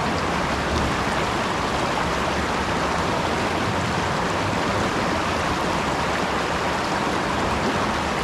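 Fast-flowing floodwater rushing steadily, a loud even roar with no pauses.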